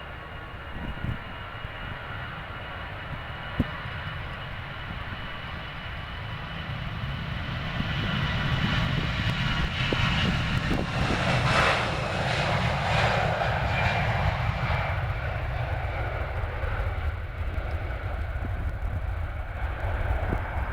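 A jet airliner's engines passing by: a roar with a high whine that builds, is loudest about halfway through with the whine dropping slightly in pitch, then eases off.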